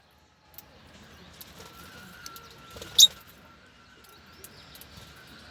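Caged birds at their feed, with scattered faint clicks and one sharp chirp about three seconds in, over a faint steady high whine.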